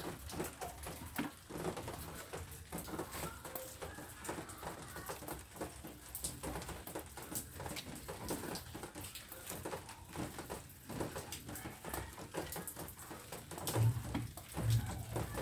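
Rain falling, its drops making a dense, irregular patter. A few low thuds come near the end.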